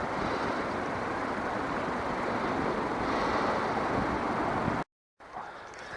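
Steady rush of flowing river water, an even noise without pitch, cutting off abruptly about five seconds in.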